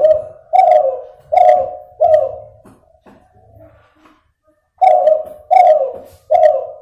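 A hybrid zebra dove (a Kelantan derkuku crossed with a cuhu, second generation) cooing in two phrases of four notes each, with a pause of about two and a half seconds between them. Its voice is still nasal, and the owner notes that the number of trailing notes is not yet consistent.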